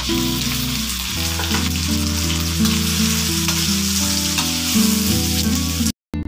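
Raw chicken pieces dropped into hot oil in a wok, sizzling loudly as they start to fry. The sizzle cuts off abruptly near the end.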